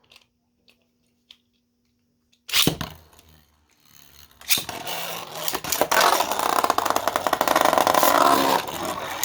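A sudden loud rasp about two and a half seconds in as the Beyblades are launched, then two 3D-printed Beyblade tops spinning and clattering against each other in the stadium, a steady whir full of rapid clicking hits.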